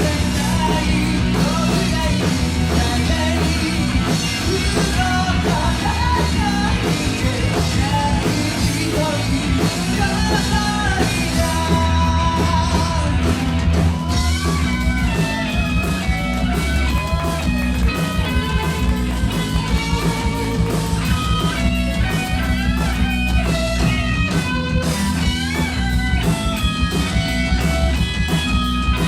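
A rock band playing live: electric guitars and drums at a steady beat, with singing over them.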